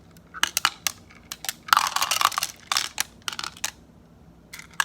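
Toy topping cream being sprayed onto a play cake: a run of short crackling, crunching noises, with a longer rough one about two seconds in.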